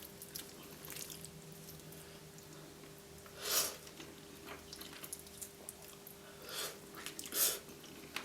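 A person eating roast chicken close to the microphone: quiet chewing, with three short louder wet mouth sounds.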